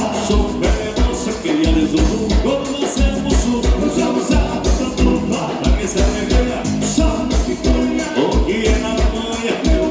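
Live gaúcho dance-band music, mostly instrumental, over a steady low bass-drum beat.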